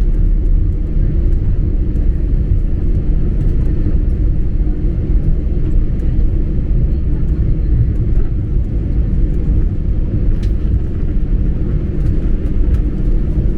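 Steady low rumble of an Airbus A320-family airliner's engines and airflow, heard inside the passenger cabin.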